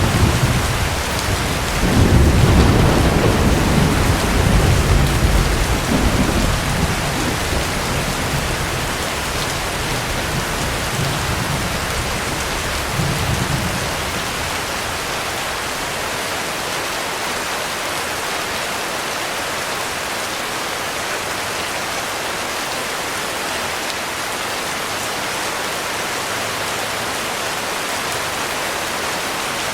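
Heavy rain falling steadily with a long roll of thunder. The rumble builds right away, is loudest from about two to six seconds in, swells once more briefly, and dies away about halfway through, leaving only the rain.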